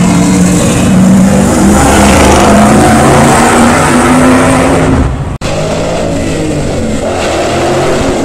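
Car engine held at high revs during a burnout, loud and steady, over a dense rushing noise. It cuts out abruptly about five seconds in, then carries on, a little quieter.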